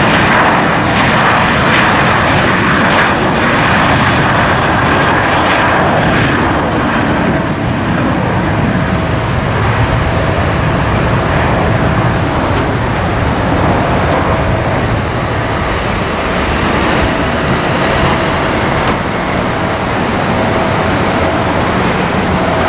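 Airliner engines running loud and steady, with a high whine that fades over the first several seconds and a lower steady tone that comes in about eight seconds in.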